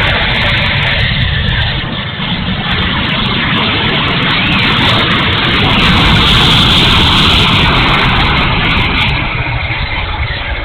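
70mm electric ducted fan of an E-flite F-16 RC jet running in flight, a dense rushing noise that swells to its loudest about six to seven seconds in, over low wind rumble on the microphone.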